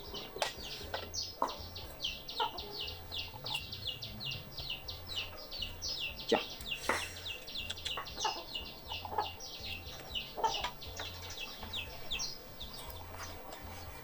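Rapid, continuous high chirping from a bird or birds: a long string of short descending chirps, about four or five a second, that stops about twelve seconds in. A few sharp clicks fall in between.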